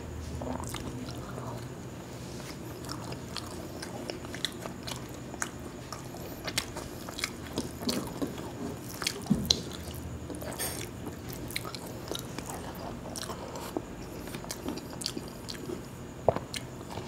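Close-miked eating: a man chewing mouthfuls of khichuri and fried sides, with many short, sharp wet mouth clicks scattered irregularly throughout.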